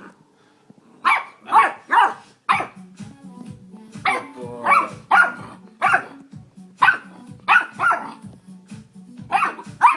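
Puppy barking repeatedly at its own reflection in a mirror, about a dozen short, sharp barks, often in quick pairs. Background music comes in about two and a half seconds in.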